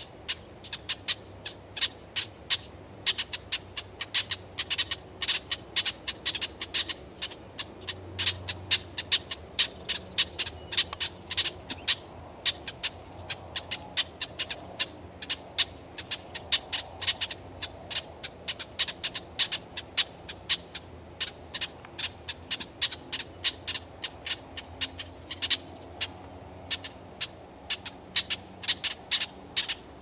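Dark songbirds perched atop a spruce, giving rapid, sharp chip calls, several a second, without a break.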